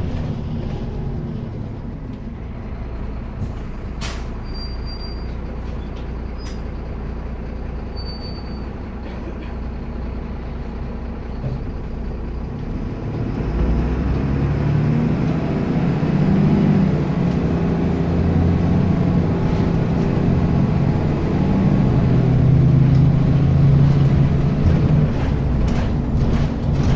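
Bus diesel engine idling low at first, then, about halfway through, its note rises and grows louder as it pulls under load. A few sharp clicks sound early on.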